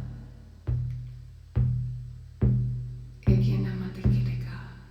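Shamanic hand drum struck in a slow, steady beat, about one stroke every 0.85 seconds, each hit leaving a low, booming ring that fades before the next.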